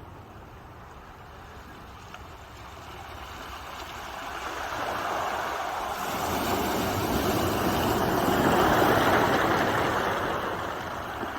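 Ocean waves: surf noise that swells over several seconds, peaks about nine seconds in, then eases off.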